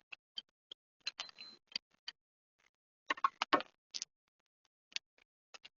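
Irregular light metallic clicks and knocks from tools and brake parts being handled, with two short clusters of them, about one second and about three seconds in.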